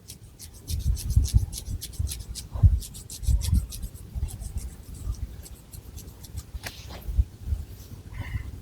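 Long fingernails scratching through thick hair on the scalp, close up: quick crisp scratch strokes over low, irregular rubbing.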